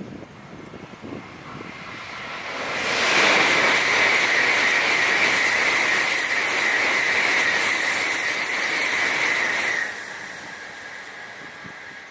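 Tokaido Shinkansen N700-series bullet train passing at speed: a rush of noise that swells about two seconds in, then holds loud and steady with a high whine for about seven seconds, and drops off suddenly near the end.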